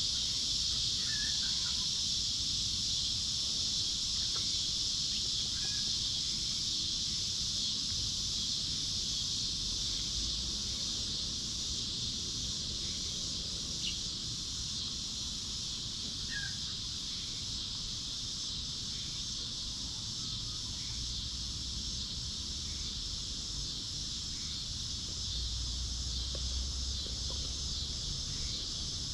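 Steady, high-pitched drone of an insect chorus, with a few faint short calls from birds or chickens.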